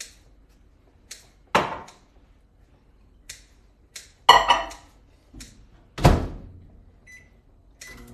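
Irregular knocks and thuds of things being handled in a kitchen, the loudest about four and six seconds in, then two short electronic beeps near the end.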